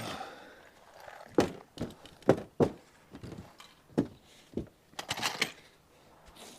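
A string of irregular hollow thunks and pops from a bus's thin sheet-metal roof flexing under a person's weight as he moves on it. Some come in quick pairs, and a cluster comes near the end.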